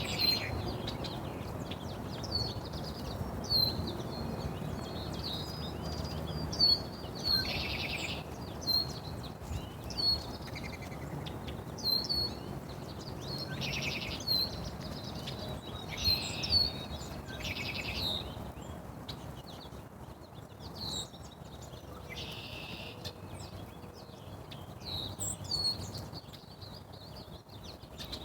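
Small birds chirping: short high chirps repeating every second or so, with a few brief scratchy bursts among them, over a steady low background hum.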